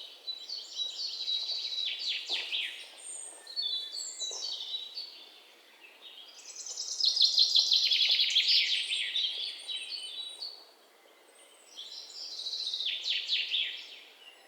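Songbirds chirping and singing in fast trills, in about four bouts with short pauses; the loudest bout falls in the middle.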